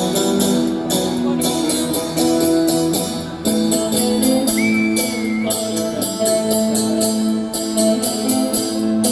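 Live rock band playing an instrumental passage: guitars over a steady drum beat. A brief high whistle-like tone rises and levels off near the middle.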